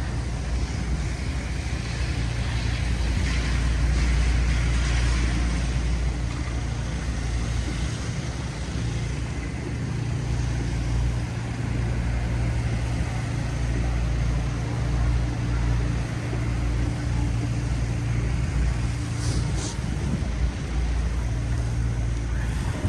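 City street traffic: motor vehicles running and passing over a steady low rumble, with a brief hiss near the end.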